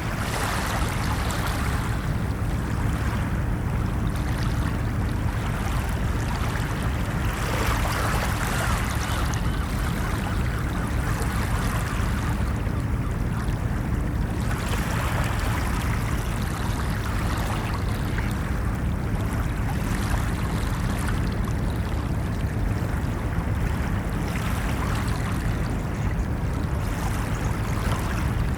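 Ocean waves washing onto a beach: a continuous surf wash over a steady low rumble, swelling and easing every few seconds.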